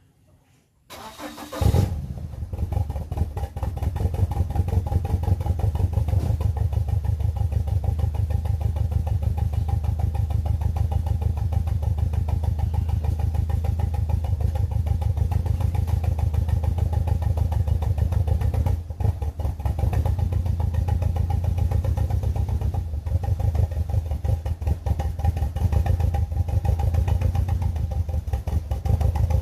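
BMW E46 318i's N42 four-cylinder engine starting about a second in, then idling with a steady pulsing rumble while one ignition coil is dead: the engine is misfiring on that cylinder.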